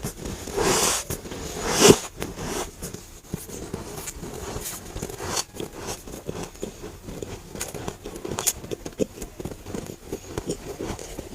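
Freezer frost chunks being bitten and chewed close to the microphone: two louder bites in the first two seconds, then a steady run of rapid small crunches as the powdery frost is chewed.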